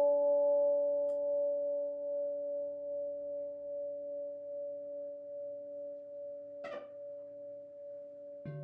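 Crystal singing bowls ringing out, a few steady pure tones slowly fading away. Near the end comes a brief soft noise, and just before the end a lower-pitched bowl is struck and starts ringing.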